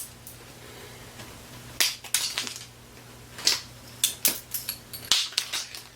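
Irregular sharp clicks and knocks of small hard objects being handled, clustered after the middle, over a steady low hum.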